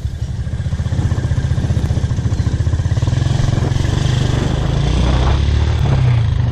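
Motorcycle engine running steadily under way, a fast, even low pulsing of its firing.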